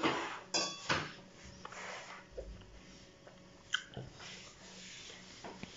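Close-up eating sounds of a man chewing a piece of roast duck, with scattered short clicks and knocks, the loudest about a second in.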